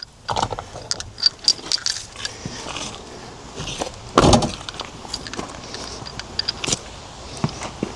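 Small metal pieces clinking and rattling as they are handled, with one louder thump about four seconds in.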